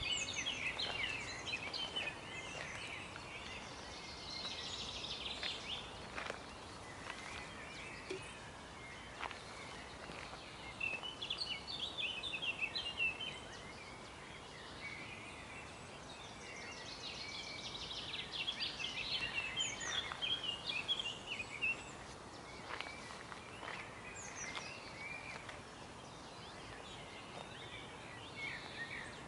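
Songbirds singing outdoors: bursts of quick high chirps and fast trills, several phrases overlapping, over a faint steady background hiss.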